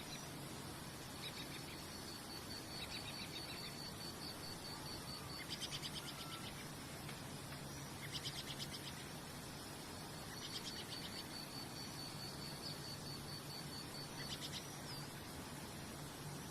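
Nature ambience: wildlife calling in high-pitched trills of rapid, evenly spaced pulses, two of them lasting several seconds, and short buzzy chirps, over a steady hiss and a faint low hum.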